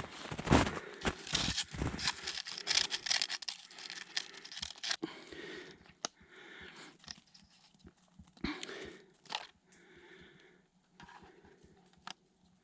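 Footsteps crunching through snow, quick and loud at first, then sparser and fainter after about five seconds.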